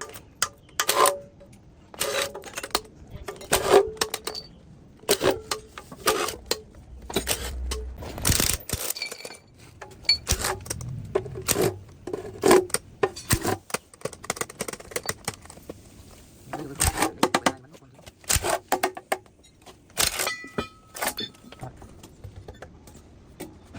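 Repeated sharp metallic clinks, knocks and scrapes of hand tools and engine parts being handled, some strikes ringing briefly.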